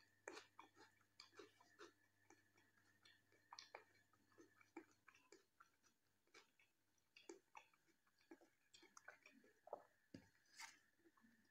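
Faint close-miked chewing and wet mouth sounds from eating rice and jackfruit curry by hand: irregular soft clicks and smacks. About ten seconds in, a dull thud and a crackle as a paratha is torn by hand.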